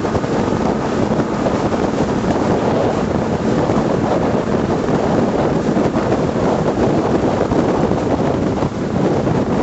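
A 12 m patrol boat under way: a steady rush of wind on the microphone and water noise over the low rumble of the boat running.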